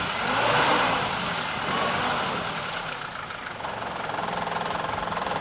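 A vehicle engine running, louder at first, then settling to a steady idle about three and a half seconds in.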